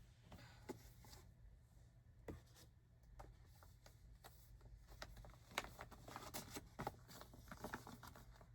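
Near silence with faint, scattered rustles and light taps of yarn skeins being handled and sorted, a little busier in the last few seconds.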